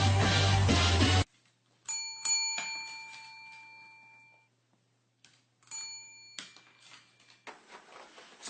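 Doorbell chime ringing twice, the first ring sounding out for about two seconds and the second, about four seconds later, cut short. Music stops abruptly just over a second in.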